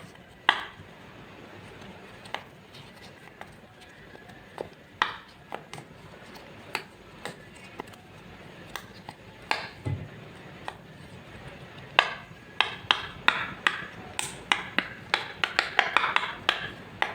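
Slime being worked in a bowl: scattered sharp taps and clicks of a utensil against the bowl, turning into a quick run of clicks in the last five seconds.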